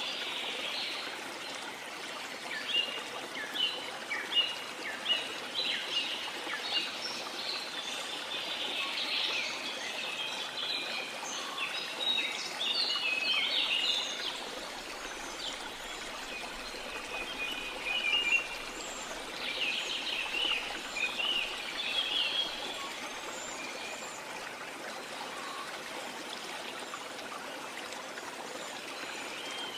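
Steady rush of a waterfall under many small birds chirping. The chirps are thick for most of the stretch and thin out near the end.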